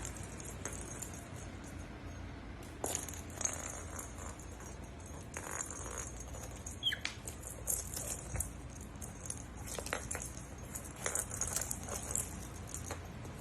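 Faint background hiss with scattered small clicks and taps, and one short high chirp about seven seconds in.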